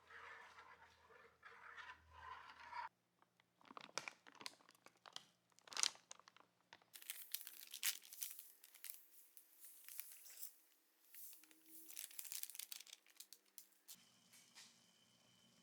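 Irregular scraping, rustling and clicking from hand work on pistol parts, in several short edited segments.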